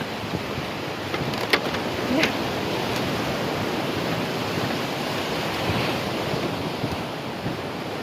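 Steady rush of sea water and wind noise on the microphone, with a couple of brief sharp knocks or splashes about a second and a half and two seconds in.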